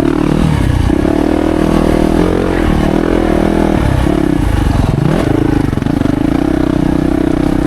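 Yamaha YZ450F's 450 cc single-cylinder four-stroke engine running hard under a rider on a motocross track. It holds a steady high pitch, with the revs falling and climbing back three times: about half a second in, around two to three seconds in, and around five seconds in.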